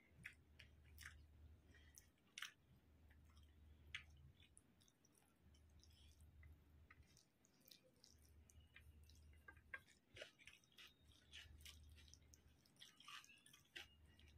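Faint chewing of rice and chicken curry, with scattered sharp wet clicks, as fingers gather and mix the rice on a plate.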